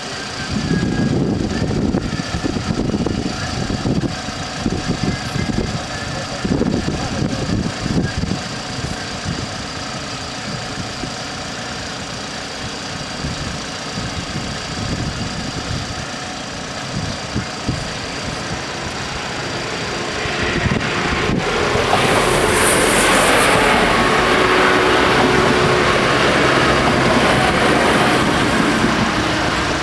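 A Trenitalia 'Swing' diesel railcar approaches and runs over the level crossing. Its engine and wheel noise swells from about twenty seconds in and stays loud as it passes, with a brief high hiss partway through.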